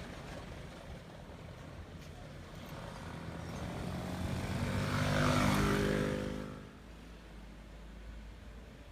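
A motor vehicle's engine passes close by. It builds over a few seconds, is loudest about five to six seconds in, then falls away quickly.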